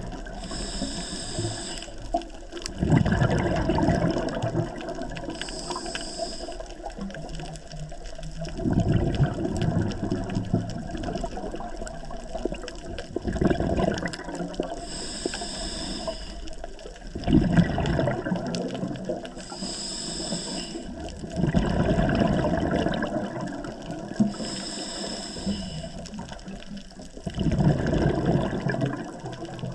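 Scuba diver breathing underwater through a regulator: a short hiss on each breath in, then a loud burble of exhaled bubbles, repeating about every five seconds.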